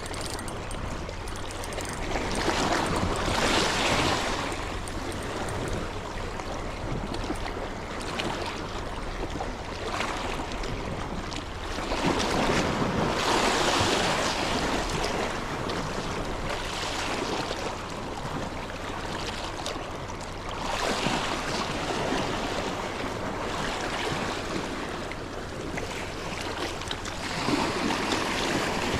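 Sea waves washing in at the shore, swelling and falling away every several seconds.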